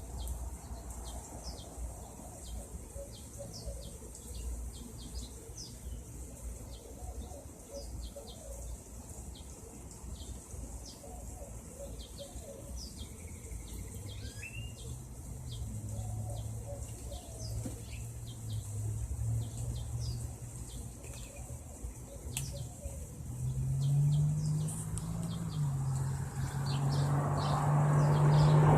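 Small birds chirping in quick short calls. A low steady engine hum comes in about halfway and grows louder toward the end.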